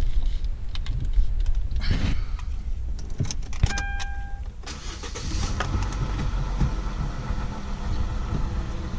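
Kia Magentis engine starting about halfway in, after some clicks and a short electronic beep, then running steadily with a hum from the water pump. The hum is typical of a failing pump whose bearing has lost its grease and whose shaft wobbles.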